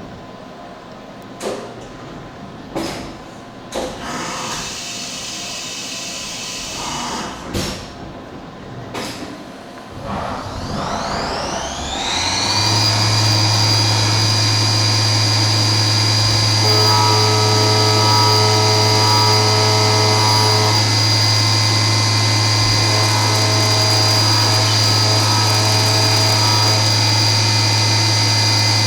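A few knocks and clatters, then a machine-tool spindle spins up with a rising whine about a third of the way in and settles into a steady high whine at speed, over a steady low hum, ready for machining the 6061 aluminium part.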